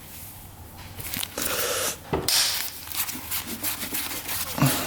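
Screwdriver and hands working the screws of the points cover on a Yamaha RD200 engine: scattered clicks and scraping, a longer scrape a little after a second in, and a sharper knock near the end.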